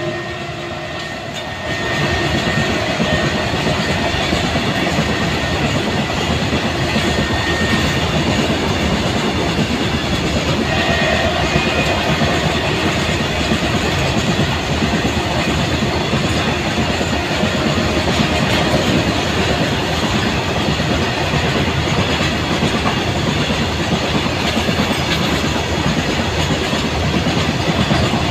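BCNHL covered freight wagons rolling past at speed: a steady rumble and clatter of steel wheels on the rails, growing louder about two seconds in.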